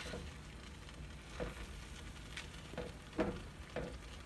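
A spoon stirring yogurt-marinated chicken in a hot, oil-free pot: several short, irregular scraping strokes against the pot over a faint sizzle.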